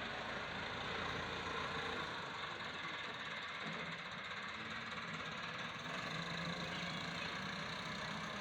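A 385 tractor's engine running steadily.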